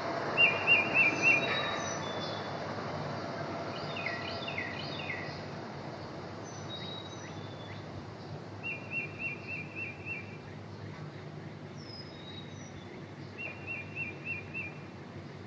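Birds singing over a steady outdoor ambience: a quick trill of about six notes comes three times, with other short, falling chirps between.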